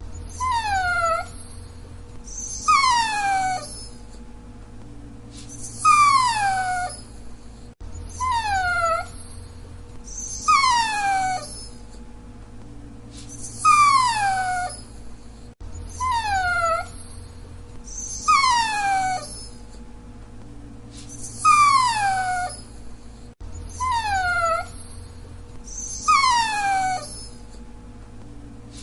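A dachshund whining: high, thin whines, each falling in pitch, in runs of three or four about a second apart. The same short run repeats about every eight seconds, about a dozen whines in all.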